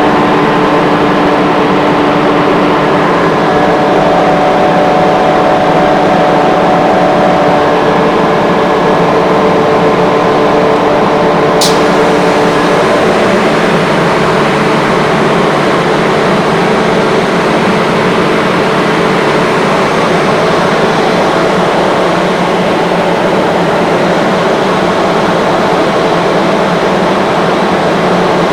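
Rotary screw air compressor running with a loud, steady hum and several whining tones that shift pitch about 13 seconds in, as a variable-frequency drive changes speed. A brief sharp high click about 12 seconds in.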